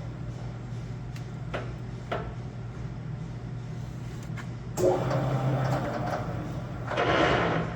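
Blanchard No. 11 rotary surface grinder running with a steady hum, with a few sharp clicks early on and two louder, rougher clunking sounds about five and seven seconds in.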